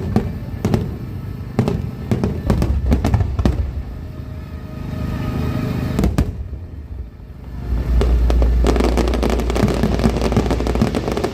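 Aerial fireworks bursting: a run of separate sharp bangs, then from about eight seconds in a dense barrage of crackling bursts over a heavy low rumble.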